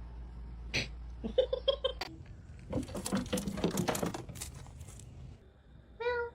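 A run of quick pattering and scratching taps, like a cat scrambling, then a short meow near the end.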